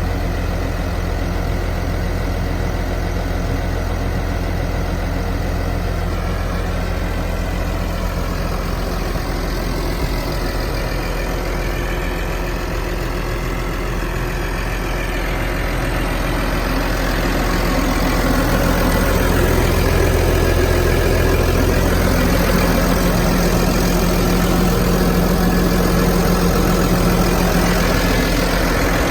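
New Holland T6070 tractor's six-cylinder diesel engine idling steadily, growing somewhat louder about two-thirds of the way through.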